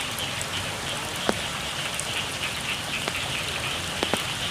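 Steady rain falling on a rice field, with a continuous high-pitched frog chorus and a few louder drops tapping sharply, the strongest just over a second in.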